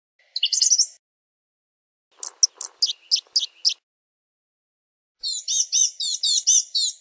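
Blue-gray gnatcatcher singing in high-pitched phrases: a short phrase at the start, a quick run of about eight sharp notes about two seconds in, and a longer phrase of repeated notes in the last two seconds.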